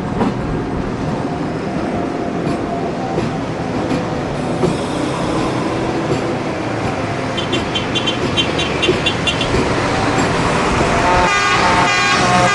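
AES-11 diesel railcar running, heard from on board as a steady engine drone and rumble. A rapid high-pitched beeping comes for about two seconds midway. A horn sounds near the end.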